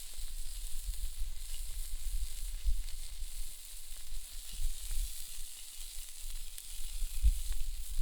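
Pork sausages sizzling on a Biji over a campfire: a steady high hiss. A low, uneven rumble of wind on the microphone runs underneath.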